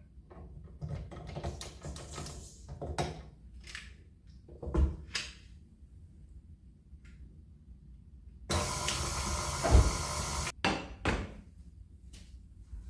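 Household handling sounds in a small room: scattered knocks and clatters of objects being set down and moved, then a steady rush of noise lasting about two seconds, starting about eight and a half seconds in, that cuts off sharply, followed by two more knocks.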